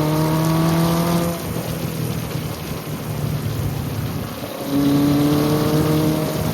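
1980 Kawasaki KZ1000 LTD's air-cooled inline-four engine pulling under throttle with its pitch climbing, easing off about a second and a half in, then pulling again from about five seconds. Heavy wind rush on the microphone throughout.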